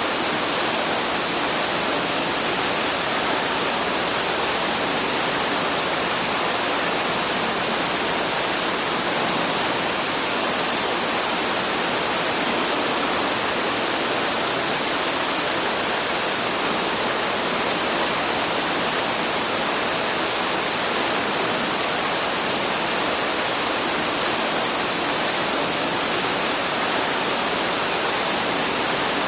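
Waterfall: water pouring and splashing in a steady, unchanging rush.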